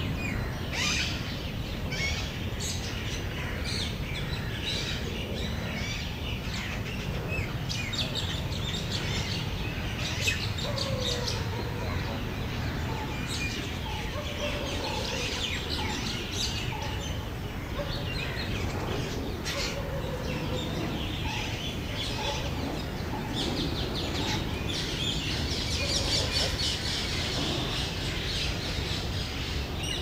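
Many small birds chirping and twittering, with short calls overlapping throughout, over a steady low background rumble.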